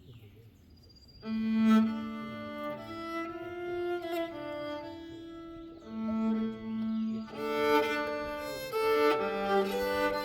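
Nyckelharpa, the Swedish keyed fiddle, bowed: a Swedish folk tune begins about a second in, with long held notes over its resonating sympathetic strings.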